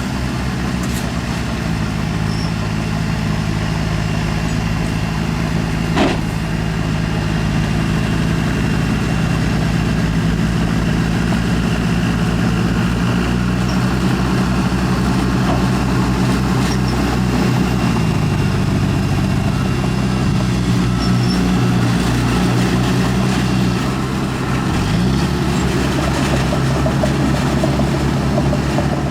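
Heavy diesel earthmoving machinery engine running steadily, with one sharp knock about six seconds in and a brief dip and rise in engine speed a few seconds before the end.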